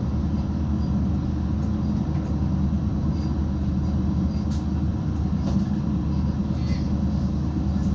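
Steady low rumble of a 730ML diesel multiple unit, its diesel engine and running gear heard from inside the passenger carriage, with a few faint ticks.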